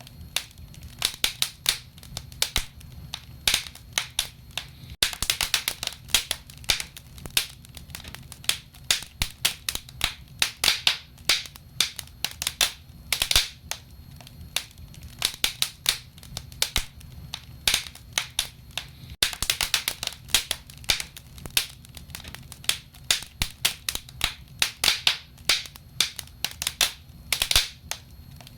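Wood fire in a fireplace crackling: frequent, irregular sharp pops and snaps over a low, steady rumble.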